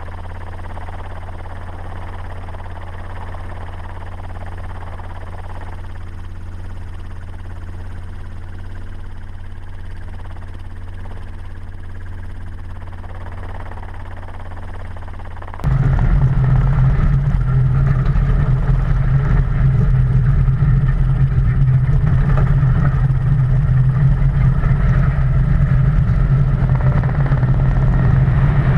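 Ford Raptor pickup truck driving fast off-road: a steady low engine drone, then an abrupt change about halfway through to a much louder, rougher engine and road noise as the truck is pushed harder.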